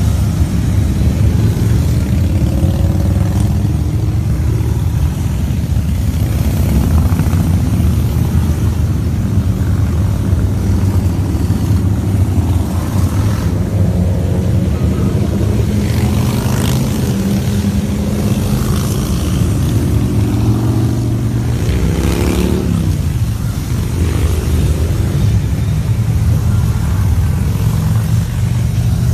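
Motorcycles riding past in a procession, their engines making a steady loud rumble, with one engine's pitch falling as it goes by about three-quarters of the way through.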